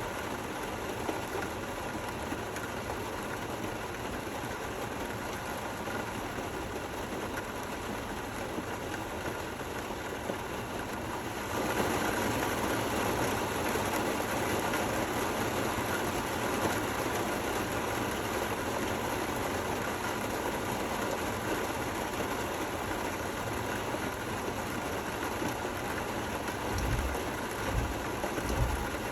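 Steady, gentle rain falling, with no thunder, turning a little louder about twelve seconds in. A few low thumps near the end.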